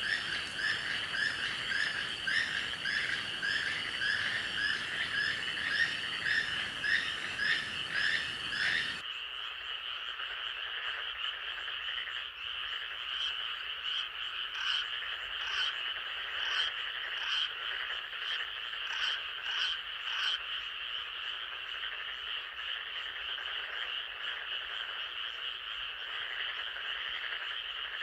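A chorus of frogs calling in a forest at night, with a steady high trilling that runs under everything. For roughly the first third one call repeats a little under twice a second; then the sound changes abruptly to a quieter continuous chorus with scattered short high calls.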